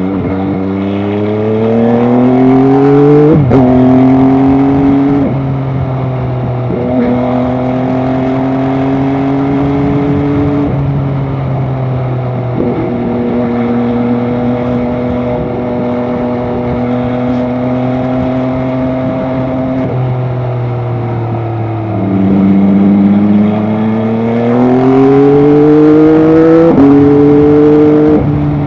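MV Agusta Dragster 800 RR's three-cylinder engine running under way. It accelerates with rising pitch, and the pitch drops at each gear change. It holds a steady pitch through a long middle stretch, then pulls up through the gears again near the end.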